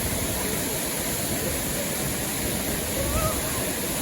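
Steady rushing of river water, an even noise with a heavy low rumble underneath.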